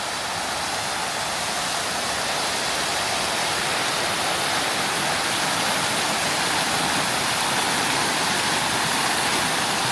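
Fountain water splashing down into its pool: a steady rushing hiss that swells slightly over the first few seconds.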